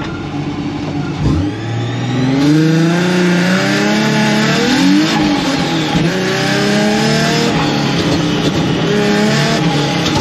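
Car engine pulling away hard about a second in, then revving up and down several times as the throttle is worked on and off through the turns, heard from inside the cabin.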